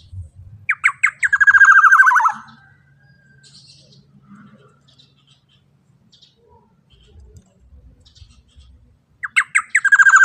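Black-naped oriole giving its harsh call: a few short notes leading into a fast, buzzy rattle that drops slightly in pitch, about a second and a half long. The same call comes again near the end.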